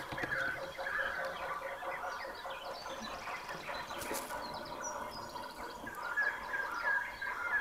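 Woodland birds chirping, with one short call repeated about every half second and higher chirps mixed in. A single sharp click comes about four seconds in.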